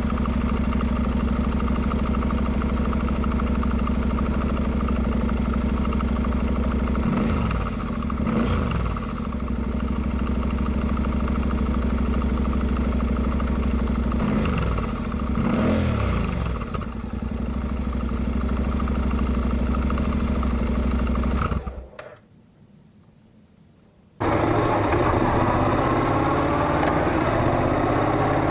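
Honda NC700X's parallel-twin engine running through a Beams slip-on muffler: a steady idle with two short spells of throttle blipping that rise and fall in pitch. It cuts off about three-quarters of the way through, and after a couple of seconds of near quiet the engine sound is back, slowly rising in pitch.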